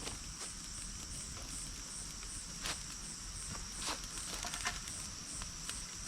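Insects calling: a steady high trill with a second, higher call chirping in even, rapid pulses over it. A few soft clicks and rustles come in between.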